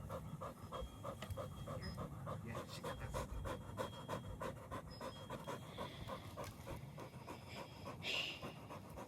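A dog panting quickly and steadily, about three breaths a second, tired out from running and play.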